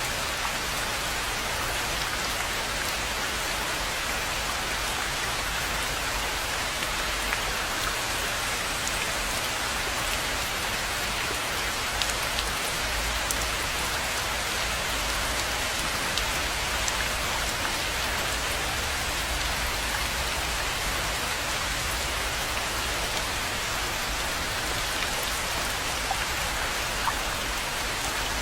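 Steady rain falling on a rainforest pond: an even hiss of rain with scattered sharper drop ticks.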